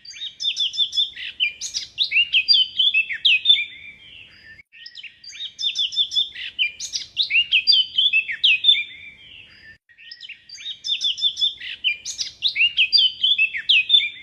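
A songbird singing: three phrases of rapid chirps and whistles, each about four seconds long, separated by short pauses.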